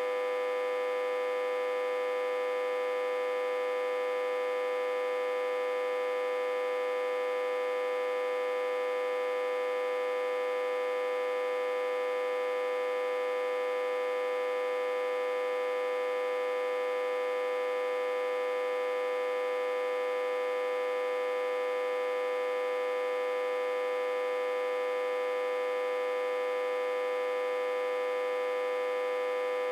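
Autotransformer humming steadily, reverse-connected to a step-down transformer and fed about 60–80 V. One constant, strong mid-pitched tone with many higher overtones above it, unchanging throughout.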